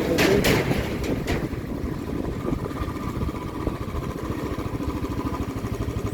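A vehicle engine running steadily on the move, with road noise and some rattling in the first second or so; a faint steady whine joins about two and a half seconds in.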